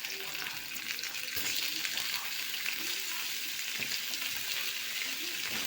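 Chicken pieces frying and sizzling in hot oil with sautéed garlic, ginger and onion, the sizzle growing louder about a second and a half in, with a few light clicks of a utensil stirring the pan.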